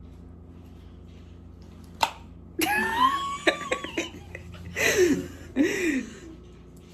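A sharp knock about two seconds in, then bursts of laughter from people.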